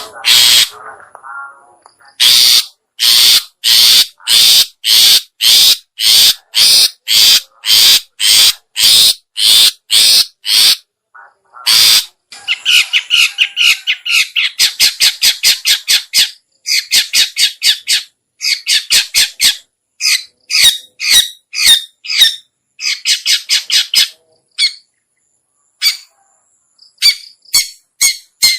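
Long-tailed shrike (cendet) calling: a series of harsh, evenly spaced calls about two a second, then rapid chattering runs of short notes in bursts of a second or two.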